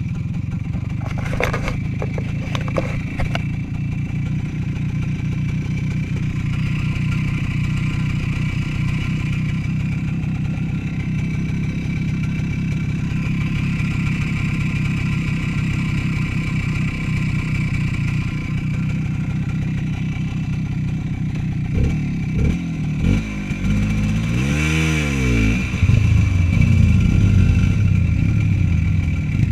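Small motorcycle engine running steadily under way. Near the end the revs change, with one sharp rise and fall in pitch.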